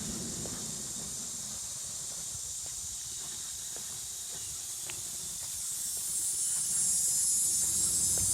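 Summer insects buzzing in a steady high-pitched chorus, growing louder about two-thirds of the way through.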